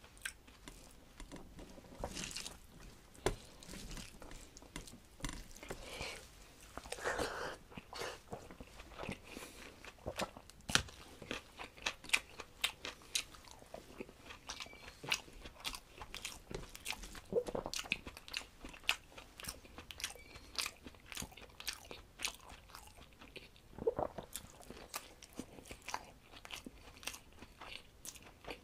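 Close-miked eating: a man chewing mouthfuls of rice, dal and curry eaten with his fingers, with many sharp, irregular mouth clicks that come thicker in the second half.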